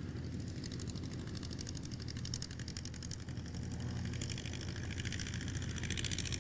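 Supermarine Spitfire Mk VIII's Rolls-Royce Merlin V12 engine running steadily, a rapid even beat of exhaust pulses, with the higher tones growing stronger near the end.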